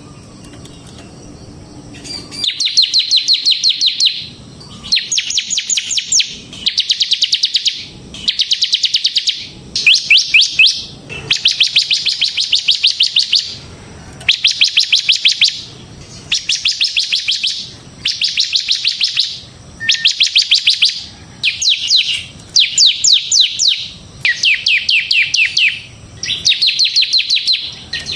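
Bar-winged prinia (ciblek semi) singing in the 'ngebren' style: loud phrases of rapid, high, repeated trilling notes, each lasting one and a half to two seconds, repeated about a dozen times with short pauses. The song starts about two seconds in.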